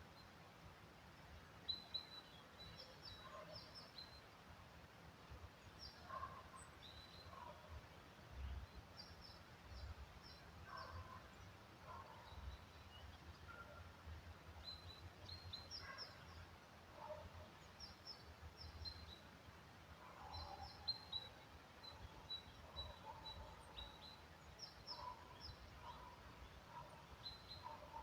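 Quiet forest ambience: small birds calling with short high chirps in scattered clusters, with some lower chirps between them, over a faint low rumble.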